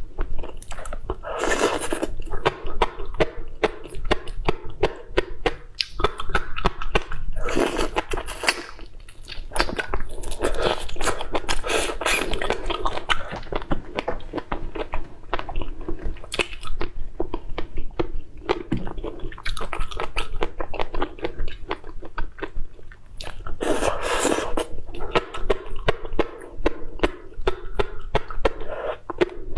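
Close-miked chewing and biting of food: a steady run of crunchy, wet mouth sounds and smacks.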